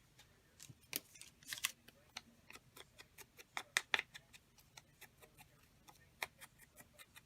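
Small scissors snipping paper in irregular sharp clicks, the loudest a few strokes about four seconds in.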